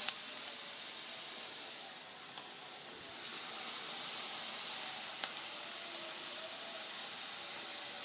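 Onions and carrots sizzling gently in a pot on lowered heat, a steady hiss, with a sharp click right at the start and another about five seconds in.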